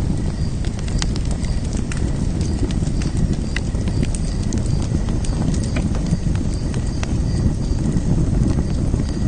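Wood fire in a fire pit crackling, with irregular sharp pops and snaps over a steady low rumble of the flames.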